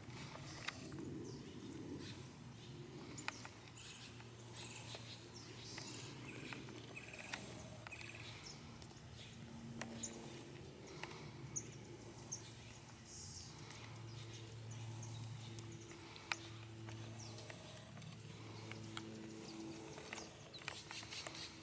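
Small birds chirping now and then over a faint low hum that comes and goes, with a few scattered light clicks.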